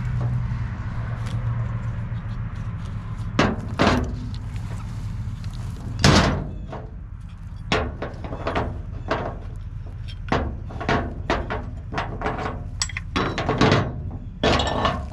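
A run of sharp metal clanks and knocks, more than a dozen, from winch rigging being handled and hooked up, over a steady low engine hum. The knocks come closer together in the second half, with the loudest about six seconds in.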